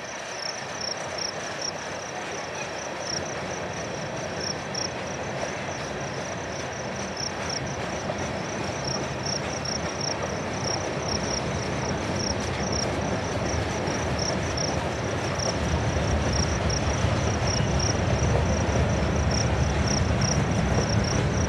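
Freight cars of a Union Pacific mixed freight train rolling past: a steady rumble of steel wheels on rail that grows louder and deeper over the last several seconds. A high, rhythmic insect chirping runs through it.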